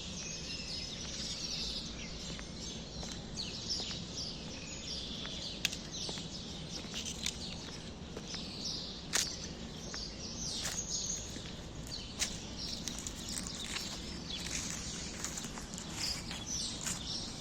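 Many small birds chirping together in a dense, continuous chorus, with a few sharp clicks about a third of the way in, around the middle, and about two-thirds through.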